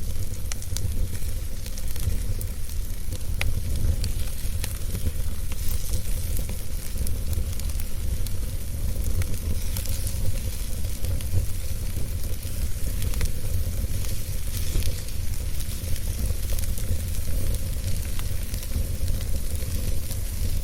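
Wood fire crackling in a fireplace, with scattered sharp pops and snaps over a steady low rumble and hiss.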